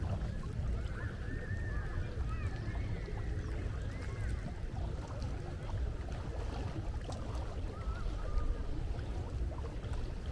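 Gulls calling repeatedly, short arching cries that rise and fall, over a steady low rumble.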